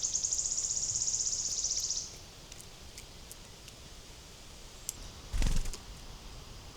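A small bird's high, rapid trill that stops about two seconds in, over quiet forest ambience with faint ticks. A brief low thump comes about five and a half seconds in.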